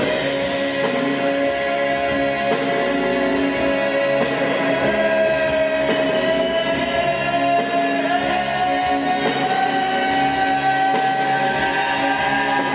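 A live acoustic band performance: singing over instruments, with one long held vocal note that climbs slowly and steps up higher about two-thirds of the way through.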